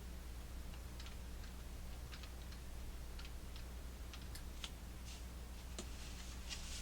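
Irregular light clicks and taps of small plastic clock parts being handled during assembly, coming more often in the second half, over a steady low hum.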